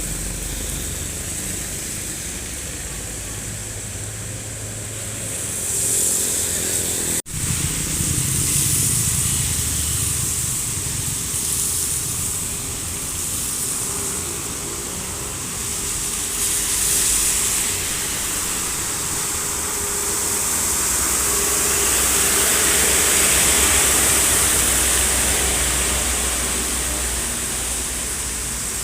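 Heavy truck engine roaring as it labours up a steep road, its note rough and rattly from a worn-out engine. It breaks off for an instant about seven seconds in and grows louder a little past the twenty-second mark.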